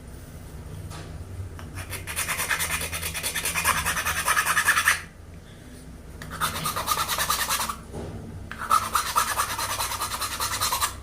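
A carved wooden scoop being rasped or sanded by hand, heard as a coarse scratching in three spells of rapid strokes, each one to three seconds long.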